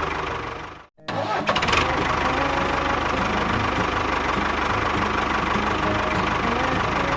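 Engine running steadily. A second in, the sound fades out to a brief silence, then comes back abruptly with a short clatter and runs on.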